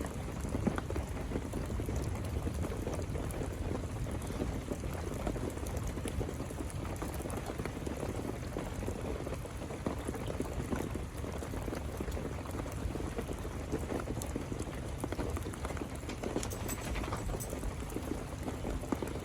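Steady rain with running water: an even, unbroken wash of noise with scattered small drip ticks.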